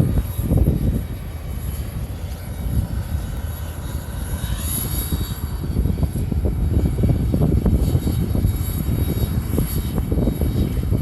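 Boeing 777-300 jet engines at takeoff power: a deep, crackling rumble that grows louder over the second half, with a higher whine that falls in pitch around the middle.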